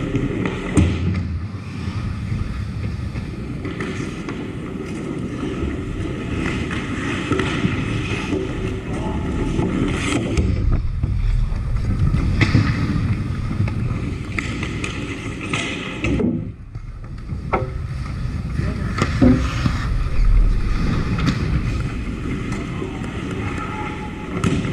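Hockey game sounds from rinkside: a steady scraping hiss of play with scattered sharp knocks of sticks and puck, and faint players' voices. The sound drops out briefly about two-thirds of the way through, then resumes.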